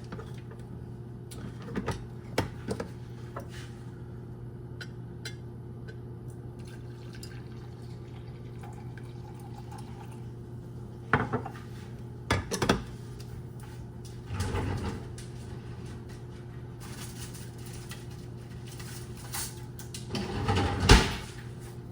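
Cup and kitchen utensil clinks and knocks over a steady low hum, with a longer stretch of liquid pouring near the end, finished by a loud knock.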